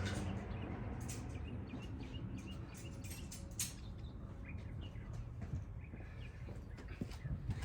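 Faint chirps, like small birds calling, and occasional light clicks over a low steady background hum.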